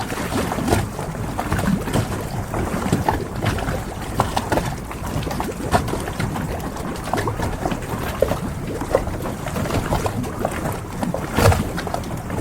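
Harbour ambience: water moving against moored boats, with frequent small knocks and clicks and a louder knock about eleven seconds in.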